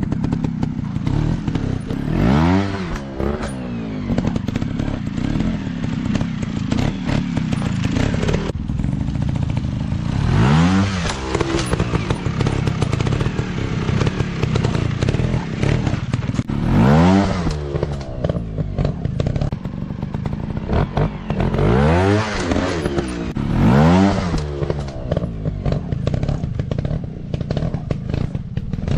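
Dirt bike engines running under a steady rumble, revved hard about six times, each rev rising and falling in pitch, with some clattering.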